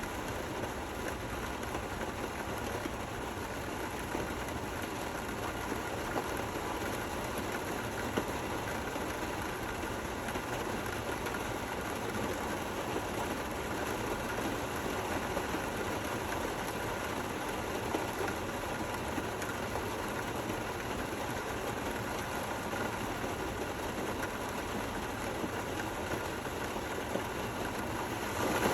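Steady rain falling, an even hiss with a few louder single drops ticking here and there.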